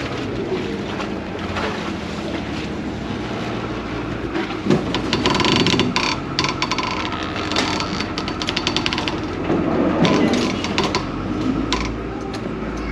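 Vaporetto water bus engine running steadily, with bursts of rattling, clicking clatter about a third of the way in and again near the end.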